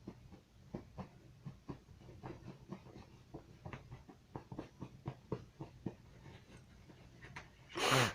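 Cats' claws scratching and plucking at a fabric comforter: a run of short, irregular scratchy ticks a few times a second. Near the end a person gasps loudly.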